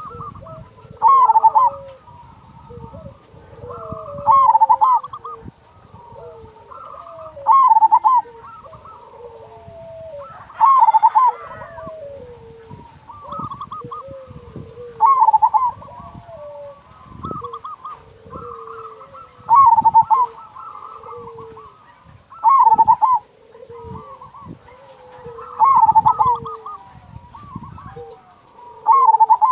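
Zebra doves (perkutut) cooing: a loud call about every three to four seconds, nine in all, with softer, lower coos in between.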